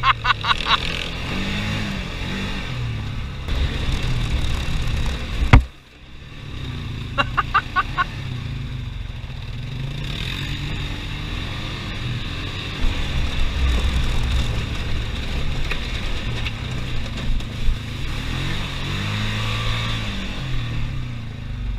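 Off-road engines running along a trail, with a sharp knock about five and a half seconds in. Short bursts of rapid rattling come near the start and again about seven seconds in.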